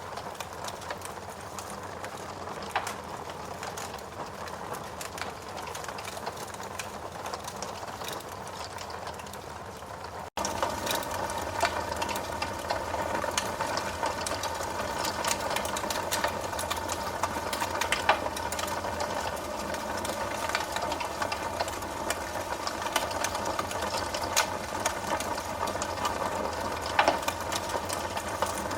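Wood fire burning in a fireplace: a steady hiss dotted with many sharp crackles and pops. About ten seconds in the sound drops out for an instant and comes back louder.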